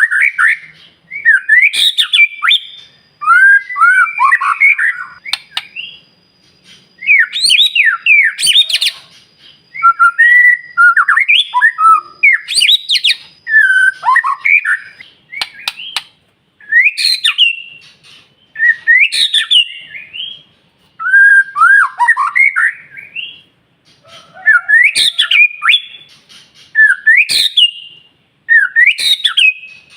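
White-rumped shama (murai batu) singing loud, varied whistled phrases, each a second or two long with short pauses between them, mixing clear sweeping whistles with harsher notes.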